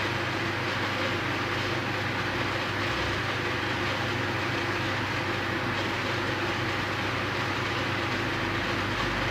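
Steady background hiss with a low hum, at an even level and without distinct knocks: continuous room noise.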